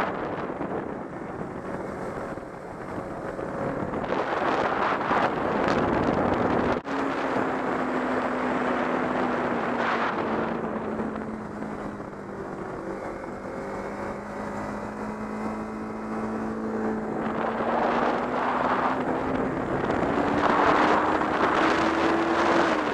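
Kawasaki Ninja 300's parallel-twin engine running under a rider, with wind noise on the helmet-camera microphone. The engine note breaks briefly about seven seconds in, sinks slowly over the next several seconds, then climbs steadily toward the end as the wind gusts louder.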